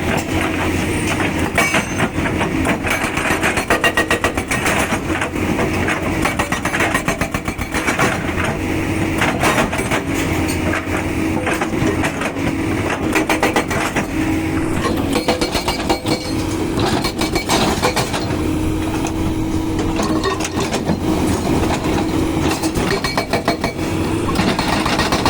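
SSI 81 hydraulic breaker on a Doosan 225 excavator hammering in rapid repeated blows, over the excavator's diesel engine running under load.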